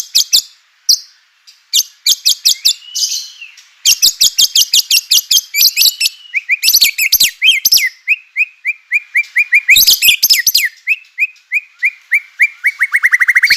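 White-rumped shama (murai batu) singing: fast runs of sharp, high repeated notes, about ten a second, broken by short pauses, then a long string of lower repeated notes in the second half.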